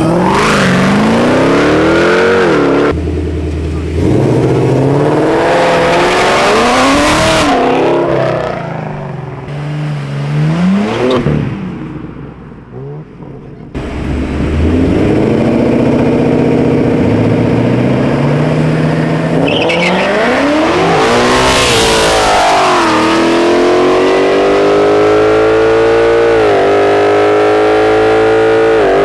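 Ford Mustang engines revving up and down, then two Mustangs accelerating hard side by side in a drag race, the engine note climbing steadily and long near the end.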